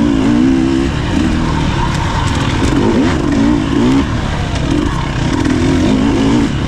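Husqvarna TE300 two-stroke dirt bike engine revving up and down as the throttle is worked, its pitch rising and falling several times.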